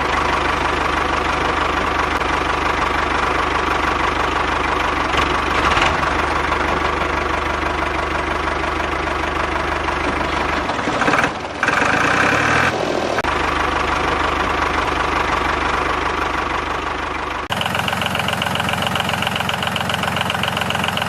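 Mini diesel engine running steadily with a knocking note. Its sound shifts for a couple of seconds around the middle, then cuts abruptly to a different, steadier engine note for the last few seconds.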